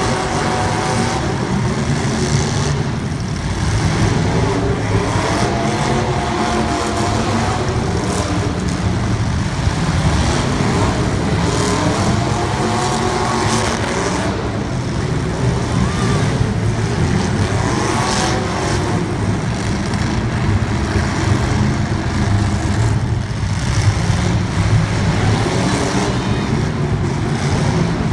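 Race car engines running hard during a race, their pitch rising and falling again and again as they rev and lift.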